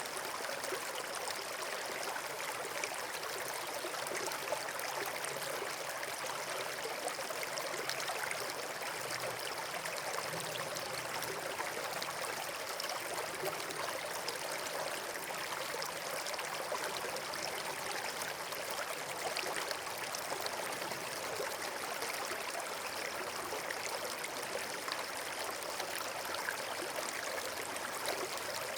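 Running water: the steady, even rush and trickle of a stream, with no change in level.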